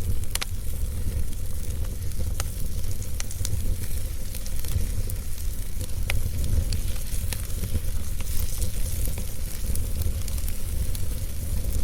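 Fire crackling, with scattered sharp pops over a steady low rumble; the clearest pops come about half a second in and about six seconds in.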